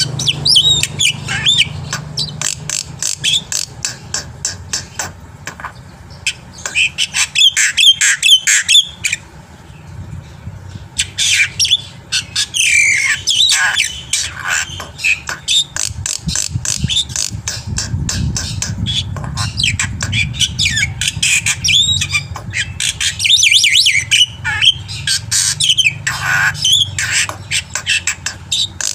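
Black-winged myna (jalak putih) singing vigorously: a dense, rapid run of harsh squawks, clicking notes and short whistled glides, over a steady low hum.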